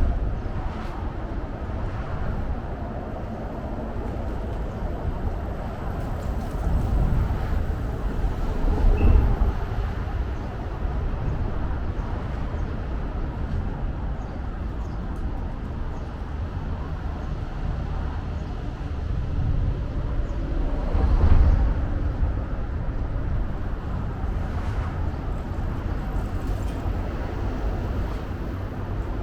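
City road traffic ambience: a steady low noise of traffic, with vehicles swelling past twice, around eight seconds in and again around twenty-one seconds in.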